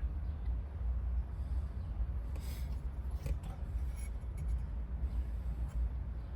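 A key and lock cylinder being worked by hand: a short metallic scrape about two and a half seconds in and a few light clicks, over a steady low rumble.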